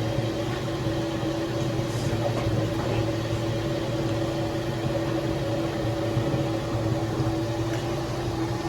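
Steady motor hum with a constant low tone and a rumble underneath, holding even without change.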